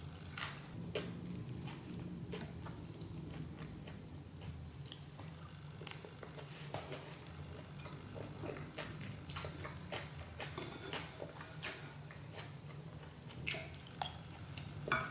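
Close-miked chewing of hamburg steak and rice, with soft wet mouth clicks and light clicks of chopsticks against a plate, scattered irregularly over a low steady hum.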